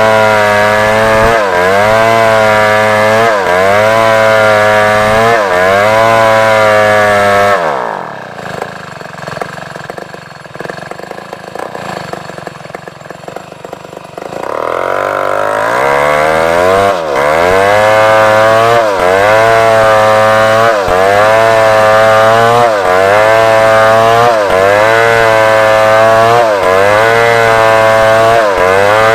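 Large chainsaw at full throttle cutting African wood into rafters, its engine pitch dipping about once a second as the chain bites. About seven seconds in the throttle is let off and it idles for about seven seconds, then revs back up and cuts again.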